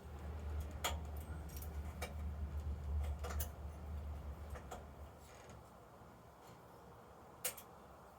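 A few sharp light clicks over a low rumble that dies away about five seconds in, then one sharper click near the end.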